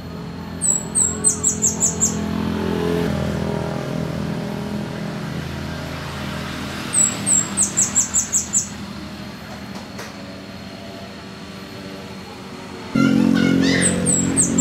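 Scarlet-headed flowerpecker singing three short, very high-pitched phrases, each a couple of slurred notes followed by a quick run of about six notes. A low steady engine hum runs underneath and grows louder about thirteen seconds in.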